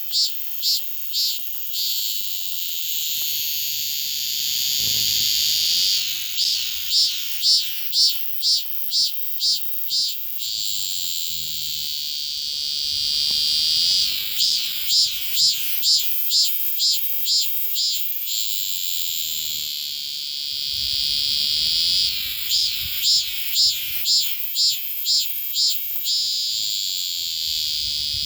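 Cicada singing at very close range: phrases of loud high-pitched pulses, about two a second for roughly four seconds, alternating with a steady buzz, the cycle repeating about every eight seconds.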